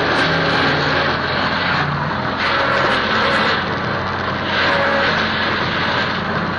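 Tractor engine running steadily while working a rotary tiller, with a low engine hum under a rushing noise that swells and fades every second or two.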